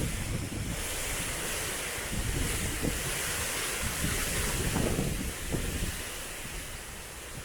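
Strong typhoon wind gusting and buffeting the microphone with a rushing roar, easing a little about six seconds in.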